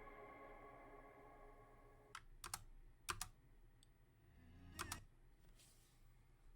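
The last sustained chord of the music fades out over the first two seconds, then a handful of faint, sharp clicks of computer keys, irregularly spaced, against near silence.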